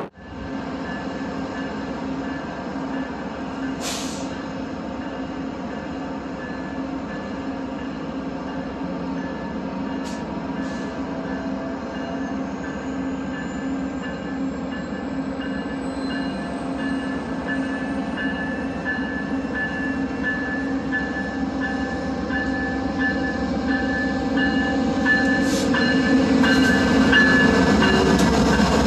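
Via Rail passenger train's diesel locomotive running with a steady hum and whining tones, growing gradually louder as it draws closer.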